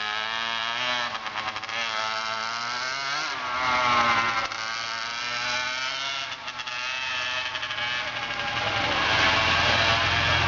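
Dirt bike engine running and revving, its pitch rising and falling as the throttle is worked, louder about four seconds in and with a heavier low rumble near the end.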